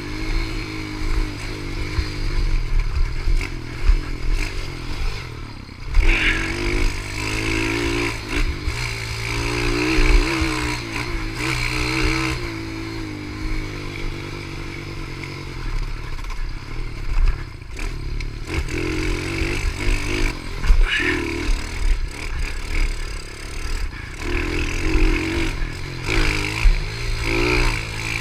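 Pit bike engine revving up and down over and over as the bike is ridden hard, with clattering knocks along the way.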